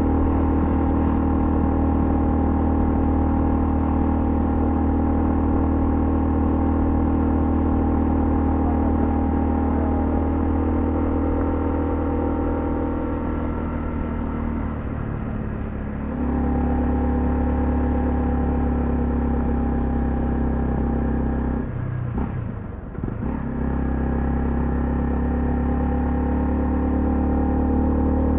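Honda CL250's single-cylinder engine running steadily under way at a constant pitch. The engine note eases off a little before the middle and comes back near the middle. It dips briefly again about three-quarters of the way through before settling back to a steady run.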